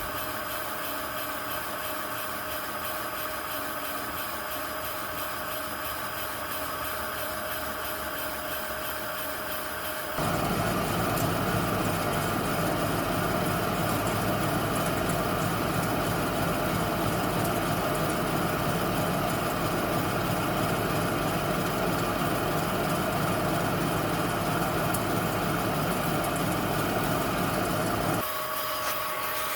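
Toyota Prius wheel hub bearings spinning, recorded up close: a steady whir with fixed tones. About ten seconds in it switches to a louder, rumblier recording, which drops back to the quieter one near the end. The recordings set a good new hub bearing against a new one that has gone bad and makes a slight bad-bearing growl.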